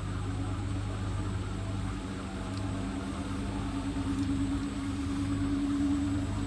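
Hotpoint WT761 Ultima washing machine running, its motor giving a steady hum with a few constant tones over a noisy drum sound.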